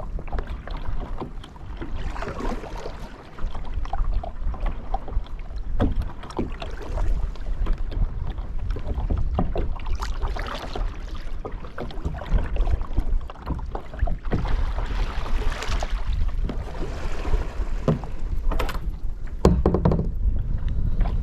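Wind rumbling on the microphone on a kayak at sea, with water splashing and lapping in several swells and occasional knocks, one heavier low thump near the end.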